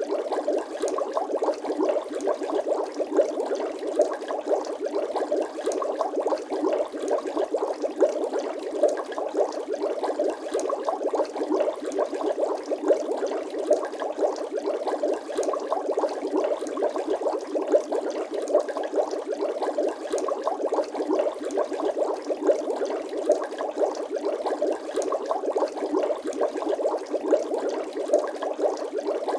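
Bubbling water sound effect: a continuous, even stream of many small bubbles, without pause and without deep bass.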